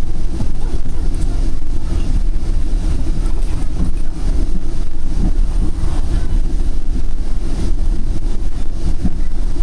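Steady low rumble of a Northstar commuter train running along the track, heard on board.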